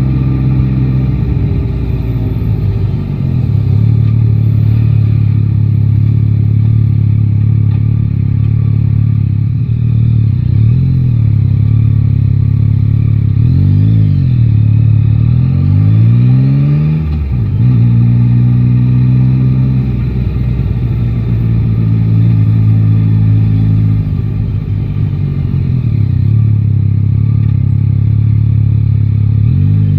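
Yamaha Tracer 9 GT's inline-three engine running at low revs, with a few short rises and falls in pitch as the throttle is opened and closed. About halfway through comes a longer climb in pitch that breaks off suddenly before the engine settles back to a steady note.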